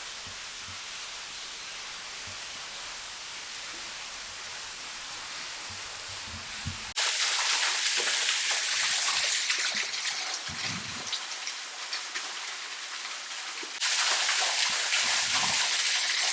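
Steady rush of falling and running creek water, with a hard jump to a louder, brighter rush about seven seconds in and another near the end.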